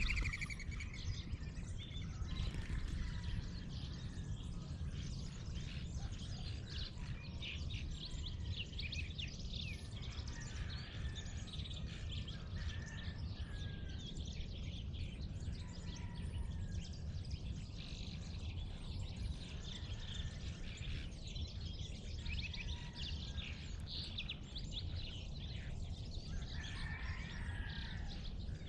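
Dawn chorus of many small birds chirping and trilling, one over another, over a steady low rumble.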